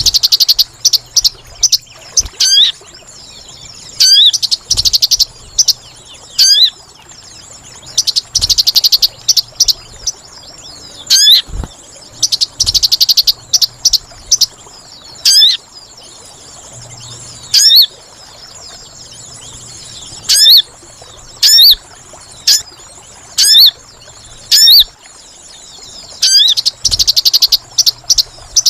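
Bird-lure recording of sogon calls: loud, sharp chirps that sweep down in pitch, repeated about once a second, alternating with fast rattling trills, over a steady faint high hiss.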